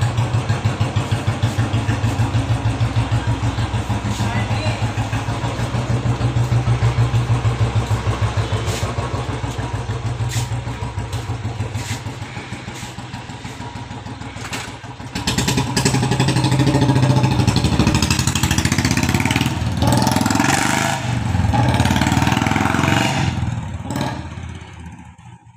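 Royal Enfield Bullet single-cylinder engine idling with a steady, even beat after a repair for misfiring. About fifteen seconds in it grows louder and revs up and down as the bike pulls away, then fades off.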